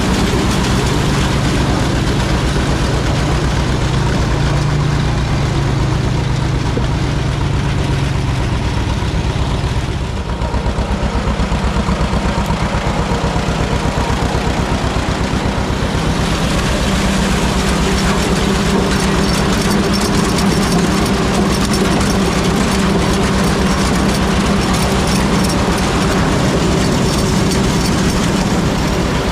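A tractor engine running steadily at a constant speed, with a brief dip in loudness about ten seconds in.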